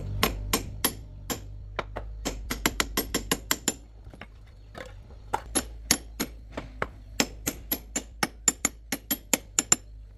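A run of sharp taps or knocks, unevenly spaced and at times about four a second, with a short pause partway through, over a steady low hum.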